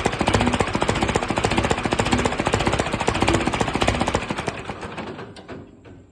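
Hindustan tractor engine running on test with a rapid, hard knocking beat, then winding down from about four seconds in and stopping near the end.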